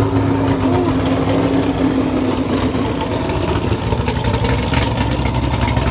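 Twin-turbo Chevrolet Camaro ZL1's V8 running steadily at low revs.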